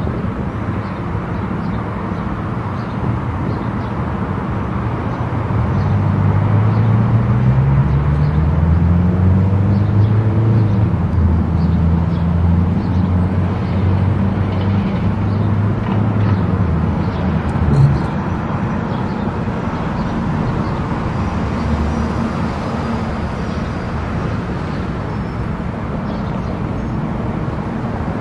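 Car driving on an expressway: steady road and engine noise. From about six seconds in the engine hum gets louder and rises in pitch for a few seconds, then holds, and there is a short knock about eighteen seconds in.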